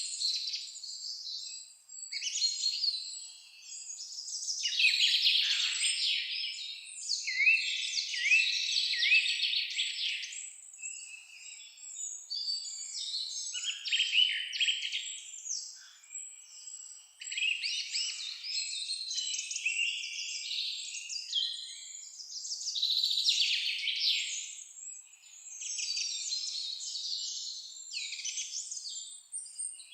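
Several songbirds singing and chirping in a forest chorus, with overlapping high trills and twittering phrases that come in waves every few seconds.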